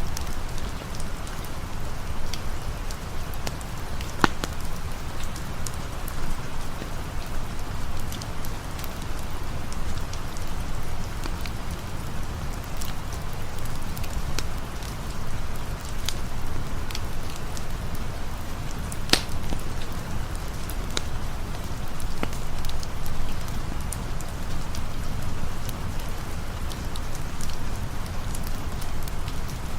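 Steady rain with a low rumble, mixed with scattered sharp crackles and pops from a campfire. Two pops stand out as louder, one a few seconds in and one about two-thirds of the way through.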